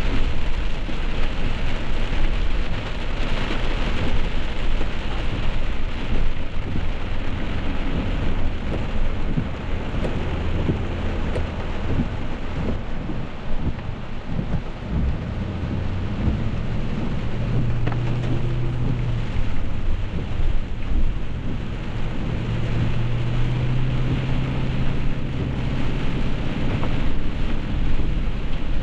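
Heavy rain pouring down in a steady, dense hiss, with a low steady drone underneath that swells at times.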